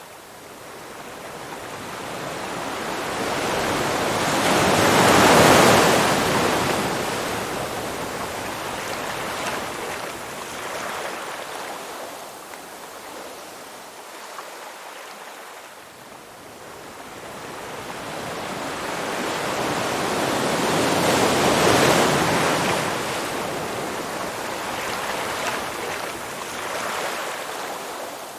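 Waves washing in on a shore: a rushing swell that builds, peaks and recedes, twice, about a quarter-minute apart.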